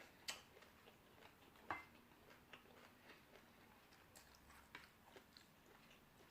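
Faint chewing: scattered small crunches and mouth clicks, with two louder ones in the first two seconds.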